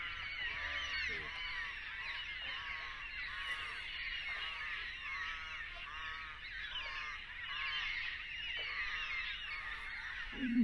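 Chorus of many birds calling: a dense chatter of high chirps, with a repeated arching call about twice a second beneath it.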